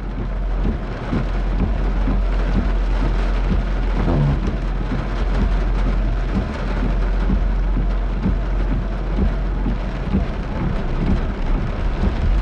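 Heavy rain hitting a car's windshield and roof, heard from inside the car, over a steady low rumble.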